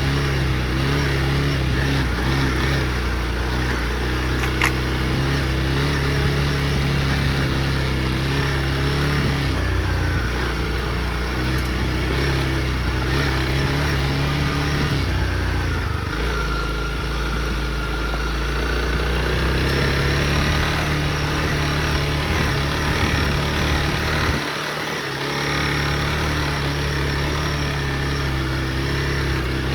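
Honda CRF motorcycle engine running steadily under way, its pitch shifting a few times and briefly dropping off about 25 seconds in before picking up again.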